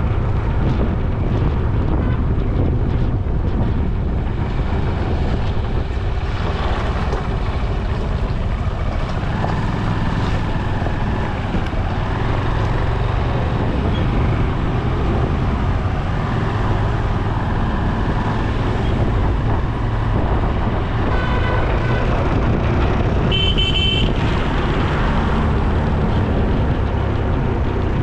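Steady wind rush and road noise of a ride along a road, picked up by a moving camera, with a vehicle horn honking briefly twice near the end.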